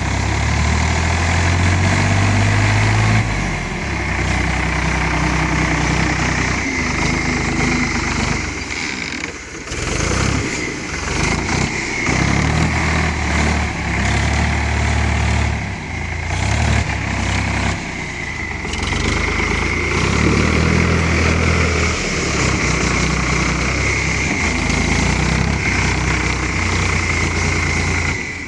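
Ford 3600 tractor engine running under changing load, its note rising and falling every few seconds as it works the clay, with a steady high whine throughout.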